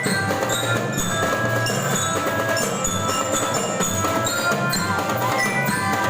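A school marching band playing: a melody of short ringing bell notes from a bell lyra (marching glockenspiel) over steady drumming.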